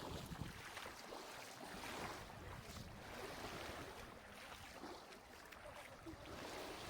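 Small, gentle waves washing onto a sandy shore in shallow water, with light wind on the microphone.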